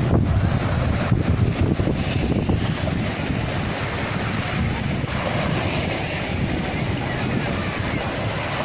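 Sea waves washing onto the shore, with wind buffeting the microphone; a louder surge of surf in the first few seconds settles into a steadier wash.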